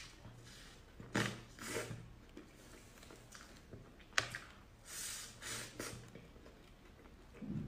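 Close-up eating sounds from someone eating cream puffs: a series of short soft crackles and squishes, with a sharp click about four seconds in and a dull thump near the end.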